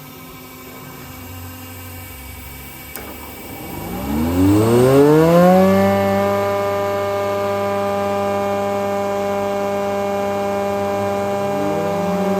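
Beuving four-sided planer's cutter spindle motor switched on: a click about three seconds in, then a rising whine as the spindle runs up to speed over about two seconds, settling into a steady, louder running whine. Near the end a second rising tone joins as another spindle starts.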